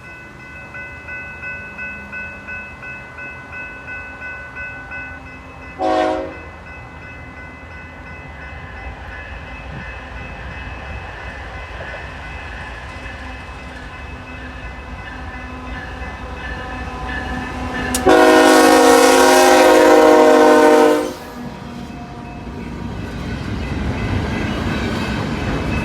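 Diesel locomotive air horn on the lead CP ES44AC of an approaching intermodal train: a short toot about six seconds in, then one long blast of about three seconds near the end. The train's rumble grows louder as it closes in. Before the first toot there is a steady pulsing ring, about two pulses a second.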